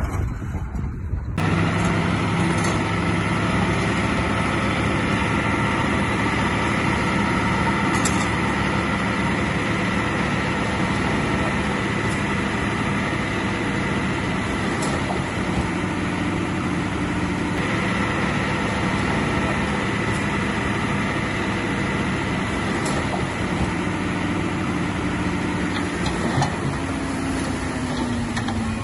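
Heavy earthmoving diesel engine running steadily under work. Its pitch falls slightly near the end.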